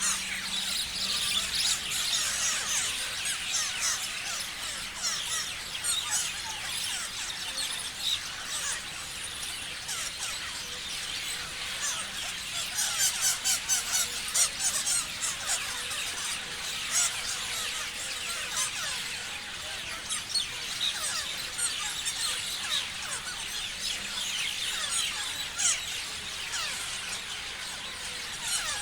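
A flock of parrots chirping and screeching together, a dense, continuous chatter of short, high overlapping calls, with a run of louder, sharper calls around the middle.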